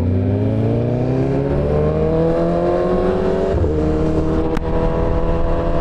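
Sport-bike engine, heard from the rider's own backpack mic, pulling hard with its pitch rising steadily for about three and a half seconds. It shifts up briefly and keeps accelerating, over low wind rumble. There is a sharp click near the end.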